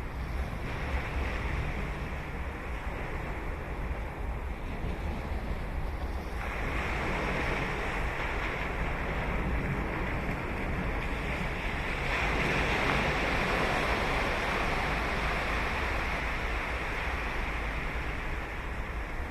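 Ocean surf breaking and washing up the beach, growing louder about six seconds in and again about twelve seconds in as bigger waves break. Wind rumbles low on the microphone underneath.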